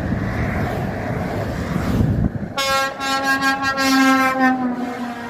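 A steady rumble of traffic, then a truck air horn sounding one long blast from about halfway in. The blast's pitch sinks slightly near the end.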